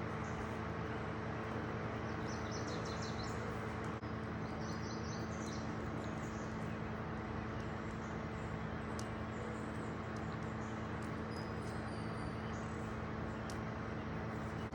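Small birds chirping in short high trills, a few times, over a steady hum and hiss.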